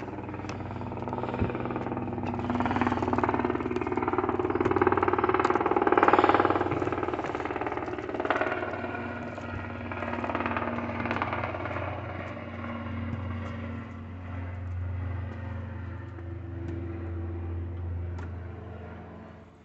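An engine running steadily, getting louder up to about six seconds in and then easing back to a lower steady hum.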